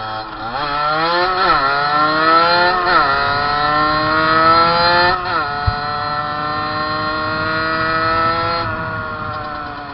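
Fantic 50cc two-stroke motorcycle engine at full throttle, climbing in pitch and dropping sharply at each gear change, about a second and a half in, near three seconds and a little past five seconds. It then pulls fairly steadily before easing off near the end. A single sharp click is heard shortly after the third drop.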